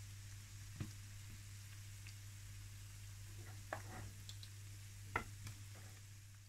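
Buñuelos frying in hot sunflower oil in a frying pan, a steady faint sizzle, with a few light knocks of wooden utensils against the pan as the fritters are lifted out.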